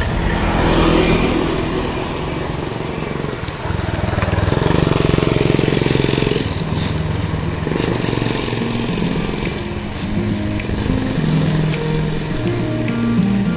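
Motorbike engines running nearby, with one louder stretch about four to six seconds in as a bike passes close.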